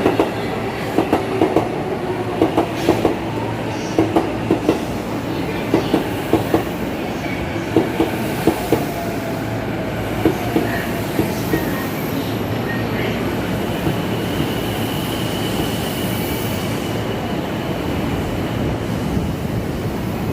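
Chuo Line commuter train wheels clicking over rail joints in quick groups, the clicks spacing out as the train slows, with a faint falling whine. After about twelve seconds the clicks stop and a steady rushing noise remains.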